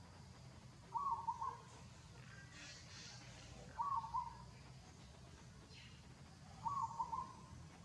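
An animal calling three times, short wavering calls about three seconds apart, over a faint low hum.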